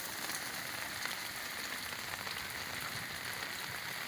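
Steady rain falling, a dense even patter of drops on hard surfaces.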